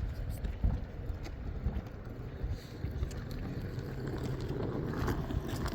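Wind buffeting the microphone: an uneven low rumble with gusts, and a few faint clicks.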